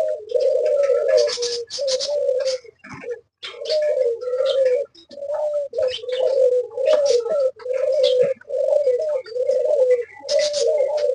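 A flock of doves cooing almost without pause in overlapping phrases, with short high chirps and chatter from small birds such as budgerigars scattered over it.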